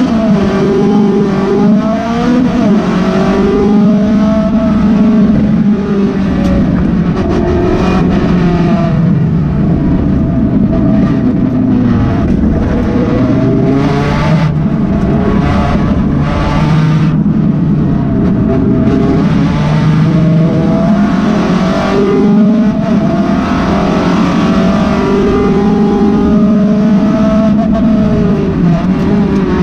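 Honda Del Sol track car's engine heard from inside the cabin, revving up and dropping back again and again as it is driven hard.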